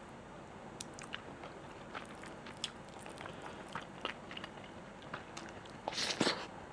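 Close-miked chewing of food, with scattered small mouth clicks and a louder, denser burst of chewing noise about six seconds in.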